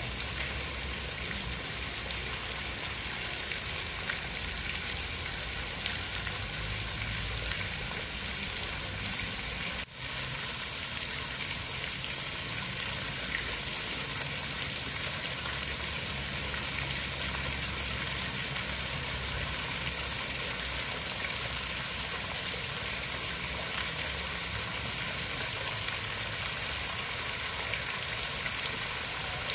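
Steady rain, an even wash of noise with no pauses except a momentary dip about ten seconds in.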